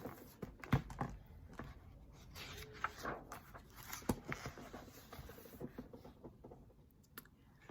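Faint handling noise from a picture book: soft rustling of paper with scattered small clicks and two sharper knocks, about a second in and about four seconds in.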